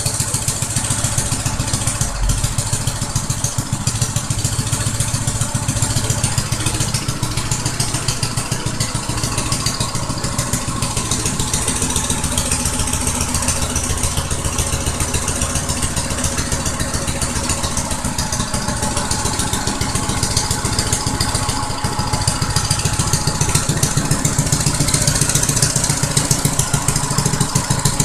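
Small engine of a motorized big-wheel trike running steadily, with a fast, even firing pulse, picking up slightly near the end.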